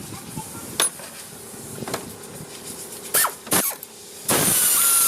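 Auto repair shop sounds: a few sharp metal clanks, then a loud hissing burst about a second long near the end.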